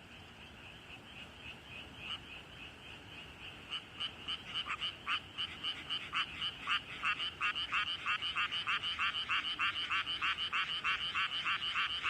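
A frog calling close by: a fast, even run of croaks, about five a second, that comes in loud about four seconds in. A fainter chorus of many frogs from the flooded rice paddy runs underneath.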